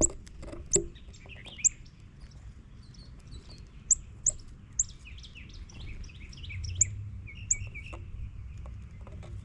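Several small birds calling: sharp, high single chips repeated at irregular intervals, over a quick twittering chatter that grows busier about halfway through. Two brief knocks sound near the start, over a low steady rumble.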